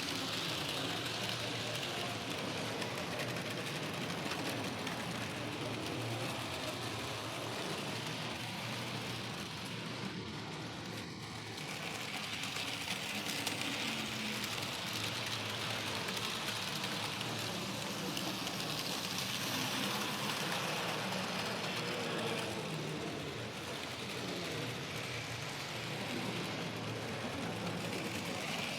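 Model trains running on a Thomas & Friends model railway layout: a steady whirring rattle of small electric motors and wheels on track. It swells and fades several times.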